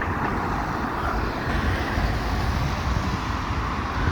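Steady outdoor noise of road traffic, with wind buffeting the microphone in a fluctuating low rumble.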